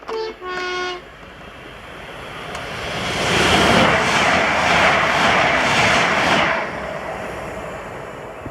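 Two-tone horn of a Class 397 electric multiple unit: a short high note, then a longer lower one. The train then passes at speed with a rushing rumble that builds, is loudest for about three seconds, and fades.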